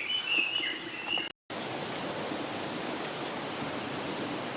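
A high, wavering bird call that breaks off at an abrupt cut about a second in. After the cut comes a steady, even hiss with no distinct calls in it.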